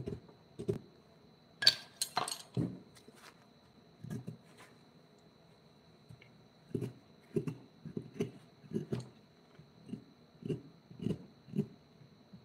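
Dull, sharp knocks of a mallet striking a carving chisel into wood, at an irregular pace of one or two a second, with a pause of about three seconds in the middle.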